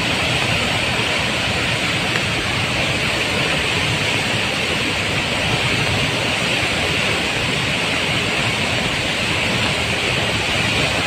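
Large waterfall in full flow after heavy rain: a steady, loud rush of falling water.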